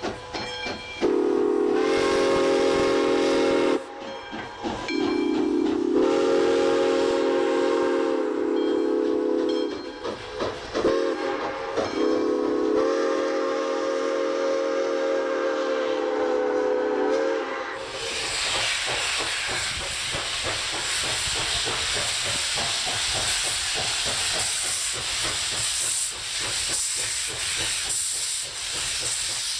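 Steam locomotive whistle sounding three long blasts of several notes at once, the first shorter than the other two. From a little past halfway a loud, steady rush of hissing steam takes over.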